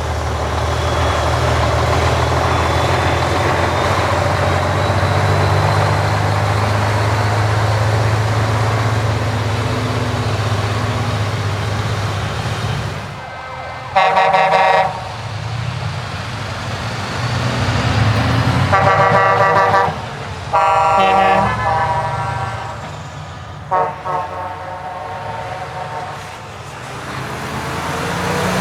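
Heavy trucks' diesel engines rumbling steadily as they drive past. Then comes a series of loud air-horn blasts, the first about halfway in and three more in the second half, each one starting and stopping abruptly.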